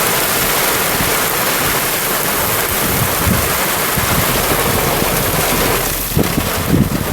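Loud, steady hiss of heavy rain, with wind buffeting the microphone in gusts about three seconds in and again near the end.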